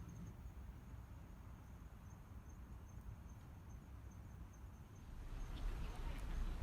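Faint, high insect trill, typical of crickets, over a low outdoor rumble. About five seconds in, the rumble grows louder and a few clicks come in.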